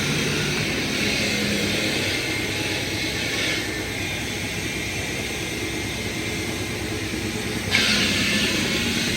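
Heavy machinery running steadily with a low hum. A loud hiss over it stops about three and a half seconds in and starts again suddenly near the end.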